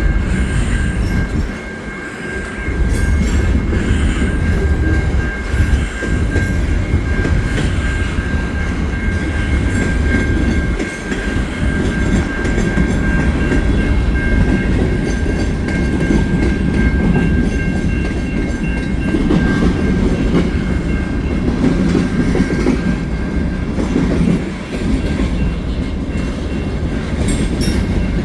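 CN mixed freight train's cars rolling past, wheels clacking over the rail joints over a heavy rumble. A steady high-pitched wheel squeal rings along with them and fades out about four seconds before the end.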